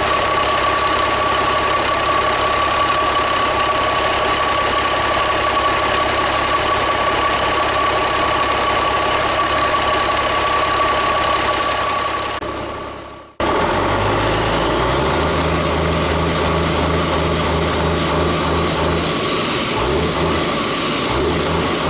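Cummins N14 Celect Plus inline-six diesel engine running, with a steady high whine over it. The sound fades and cuts off about thirteen seconds in, then the engine is heard again with a deeper, steady hum.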